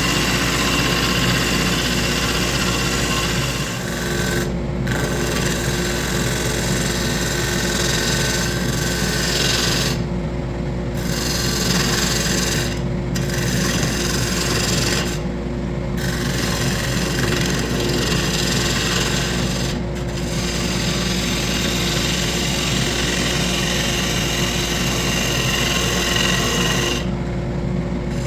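Wood lathe running with a turning tool or sandpaper scraping against the spinning wood, a steady scratchy rasp over the motor's hum. The scraping stops for a moment about six times as the tool is lifted off, while the motor keeps running.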